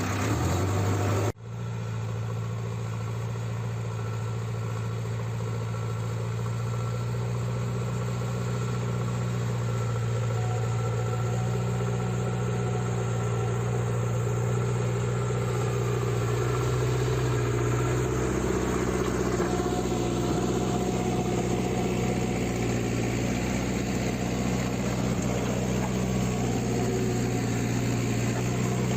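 Diesel engine of a JCB 3CX backhoe loader running steadily with a deep, even note. The sound breaks off sharply for an instant about a second in, then the engine carries on, a little fuller from about two-thirds of the way through.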